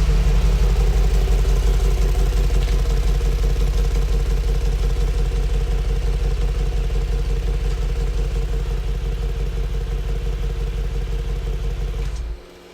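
Car engine idling steadily, a loud, even low rumble that cuts off suddenly near the end.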